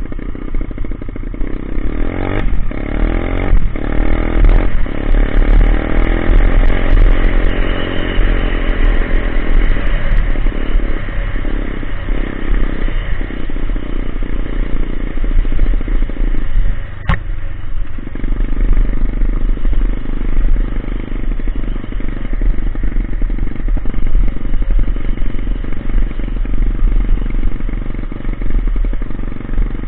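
Coolster Speedmax 125 pit bike engine running through a loud exhaust pipe, revving up with rising pitch in the first third, with scattered clatter and one sharp knock about halfway through.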